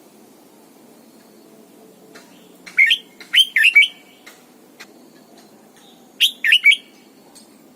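Red-whiskered bulbul singing: two short phrases of quick, bending whistled notes, the first about three seconds in and the second, of three notes, about six seconds in.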